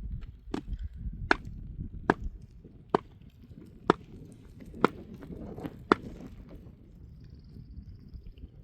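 Wood being chopped: seven sharp chopping strikes about one a second, stopping about six seconds in.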